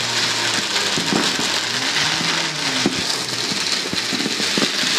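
Fireworks and firecrackers going off, a dense unbroken crackle like heavy rain with scattered sharper pops.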